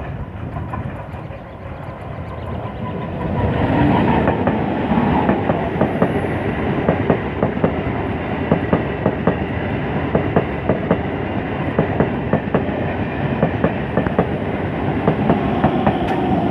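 Eight-coach MEMU electric passenger train approaching with a steady whine, then passing close by. From about four seconds in, its wheels clatter in a fast, regular clickety-clack over the rail joints as the coaches roll past.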